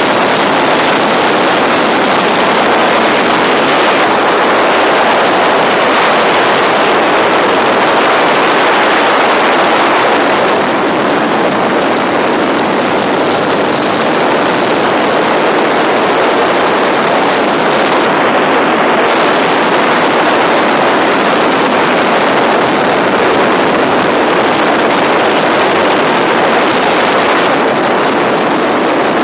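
Tour helicopter's turbine engine and rotors heard from inside the cabin as a loud, steady rushing noise, easing slightly about ten seconds in.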